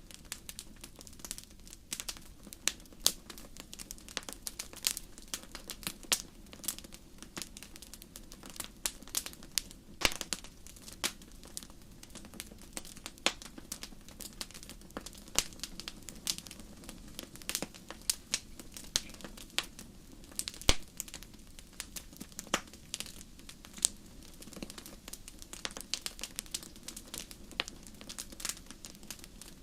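Wood fire crackling in a fireplace: irregular sharp pops and snaps, several a second, over a faint steady low rumble.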